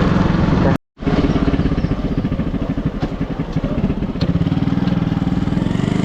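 Motorcycle engine running under way, its firing pulses steady and close-spaced. The sound drops out completely for an instant just under a second in, and the engine note changes about four seconds in.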